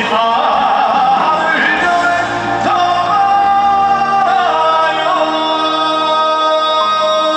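Live trot ballad: a male singer with band accompaniment, the melody bending in the first seconds and then settling into a long held note about halfway through.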